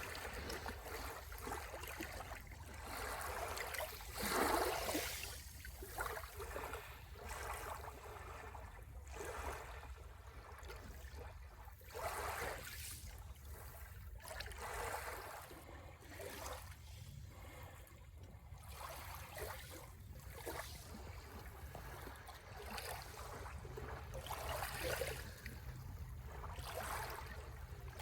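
Sea waves washing in and draining back, swelling and fading every few seconds, with the loudest wash about four seconds in, over a steady low rumble.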